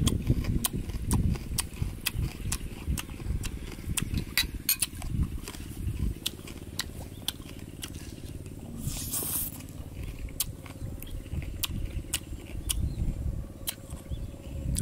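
Close-miked chewing and lip smacking of someone eating, with many crisp clicks and crackles throughout and a brief hiss about nine seconds in.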